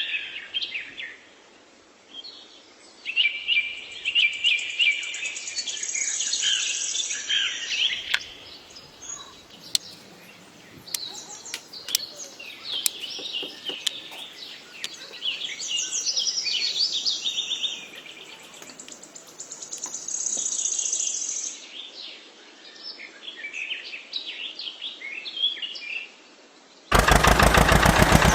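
Small birds chirping and singing in repeated short bursts. Near the end a loud, fast-pulsing mechanical buzz cuts in abruptly.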